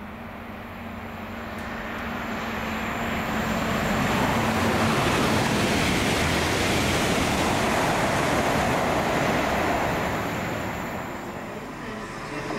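A train passing by: a rushing noise that builds over about four seconds, holds steady, and fades near the end.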